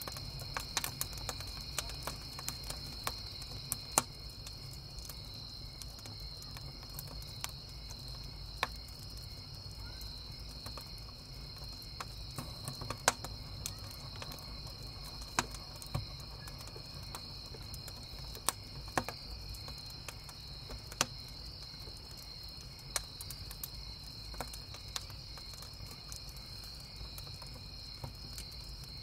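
Wood campfire crackling, with sharp irregular pops scattered throughout, the loudest about 4 and 13 seconds in, over the steady chirping of crickets.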